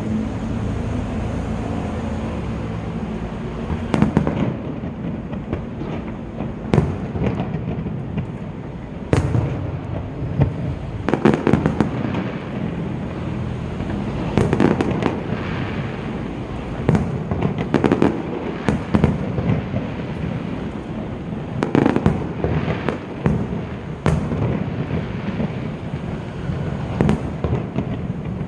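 Fireworks display: an irregular string of bangs and pops, some in quick clusters, over a continuous low rumble.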